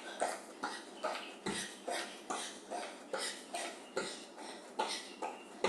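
Rhythmic short, sharp exhales and footfalls from a person doing jumping jacks in running shoes, about two and a half per second, steady throughout.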